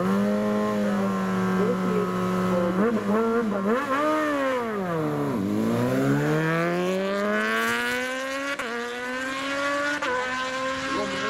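Superbike racing motorcycle engine at high revs: steady at first, a few quick rev changes around three seconds in, then the pitch drops deeply about five seconds in and climbs steadily again as it accelerates hard up the course.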